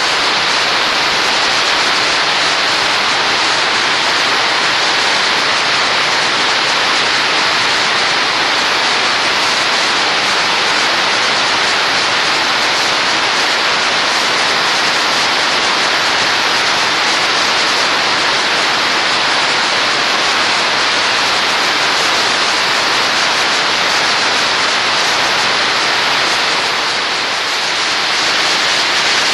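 A steady, loud rushing hiss that holds evenly, with no rhythm or distinct events.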